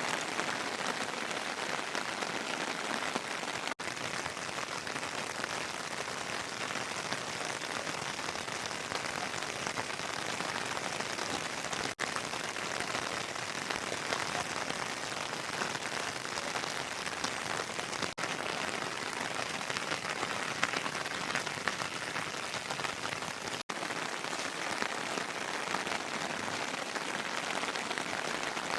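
Heavy rain falling steadily, an even hiss of rain on surfaces, broken by four momentary gaps.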